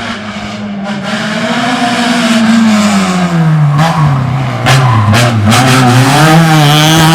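Racing prototype car's engine approaching and getting louder, its revs dropping as it brakes and downshifts through the middle, with a few sharp cracks, then picking up again and holding near the end.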